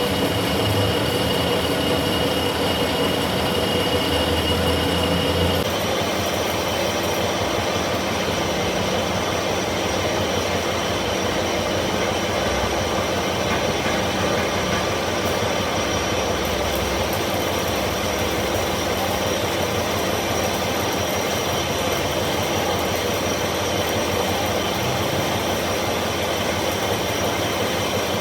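Workshop machinery running steadily: a continuous mechanical noise with a high whine that shifts in pitch about five seconds in.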